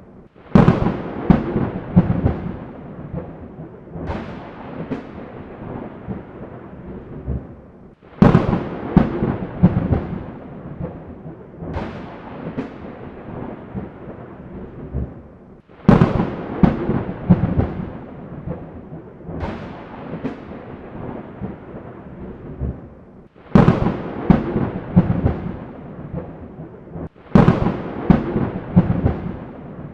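Thunderstorm: thunder cracking and rolling again and again, a new peal starting about every four seconds and dying away into rumble, over steady rain.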